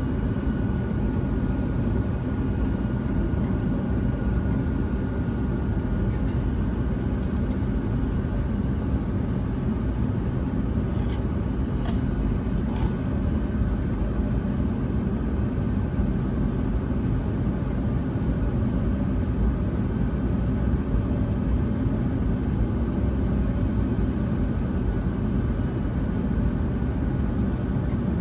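Steady cabin rumble of a Boeing 757-200 airliner: engine and airflow noise heard from inside the passenger cabin, holding an even level, with a couple of faint ticks a little before halfway.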